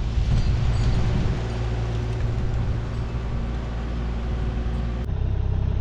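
Diesel engine of a compact construction machine running steadily at idle, a low even hum, with an abrupt jump in the sound about five seconds in where the recording is cut.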